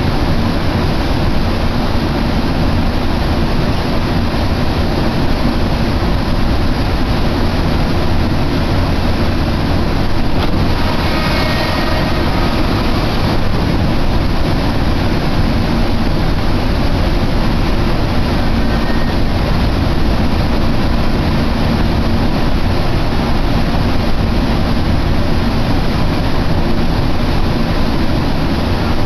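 Keihan Main Line train running between stations, heard from inside the carriage as a steady rumble and rush, with a faint whine briefly about eleven seconds in.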